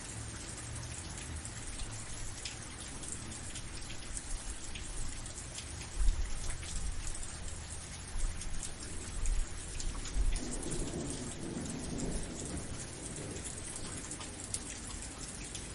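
Steady heavy rain with many fine drop patters, and thunder rumbling low underneath: a sharp swell about six seconds in and a longer rolling rumble from about ten to thirteen seconds in.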